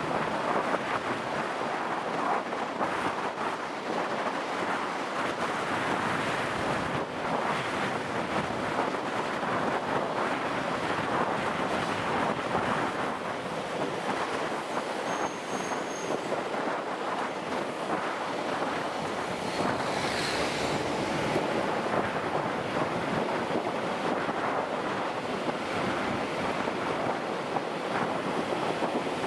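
Wind rushing over the microphone of a moving motorcycle, a steady noisy rush that covers any engine sound.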